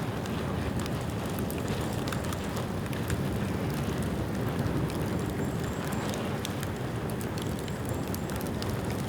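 Bamboo bonfire burning: a steady low rush of flame with frequent small crackles and snaps.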